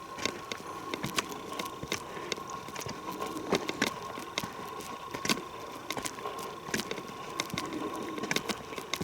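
Footsteps on a forest trail: an irregular run of crunches and crackles underfoot, a few louder ones in the middle and near the end.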